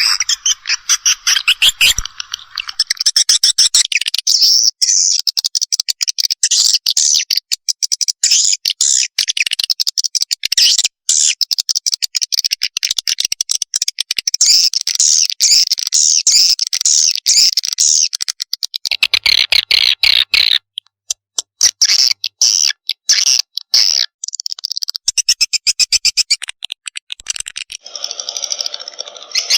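Recorded swiftlet lure call: swiftlet chicks' rapid, high chirping and twittering in dense runs, with a brief break partway through and a lower-pitched call near the end. It is a recording played to draw swiftlets into a nesting house.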